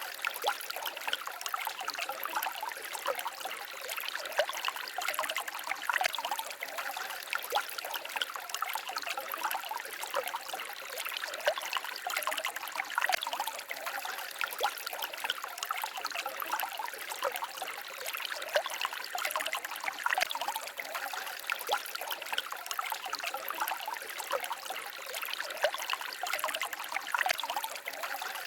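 A small stream babbling and trickling steadily: continuous light splashing made of many small water sounds, with almost no deep rumble.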